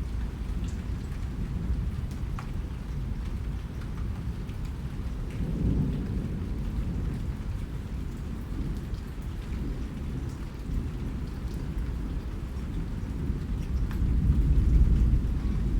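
Steady rain with a low rumble of thunder underneath that swells louder near the end, and scattered drop ticks on top.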